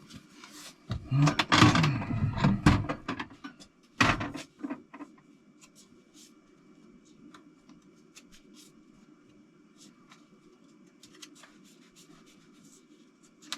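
Metal hand tools and engine parts being handled: a clattering stretch, a sharp knock about four seconds in, then scattered light clicks over a steady low hum.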